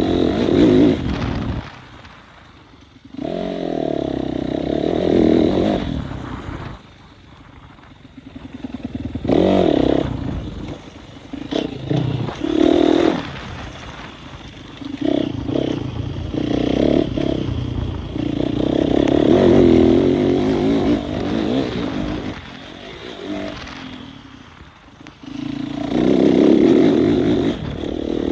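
Motocross motorcycles riding a dirt track, engines repeatedly revving up hard and dropping off, with loud surges every few seconds as the bikes accelerate and pass.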